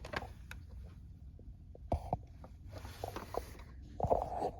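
Plastic toy fire engine being handled: scattered clicks and knocks from its loose plastic parts, with a short scrape a little after three seconds in.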